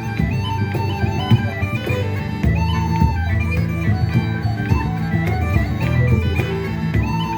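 Bagpipes playing a tune: a melody of quick stepping notes with short grace-note flourishes over steady held drones.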